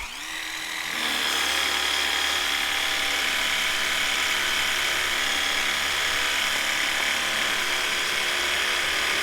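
Electric power drill running continuously, spinning up over the first second, then holding a steady whine.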